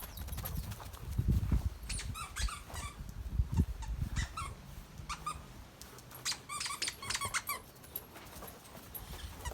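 Squeaker in a plush bird dog toy squeaking over and over as a dog chews it, the short squeaks coming in quick clusters. A low rumbling handling noise sits under the first few seconds.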